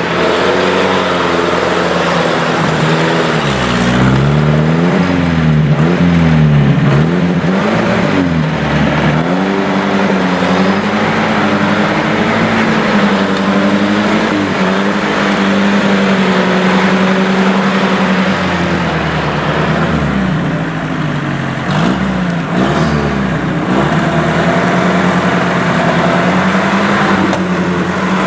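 Off-road 4x4's engine under load, revving up and down repeatedly as it is worked over rough ground, with a stretch of steadier running in the middle.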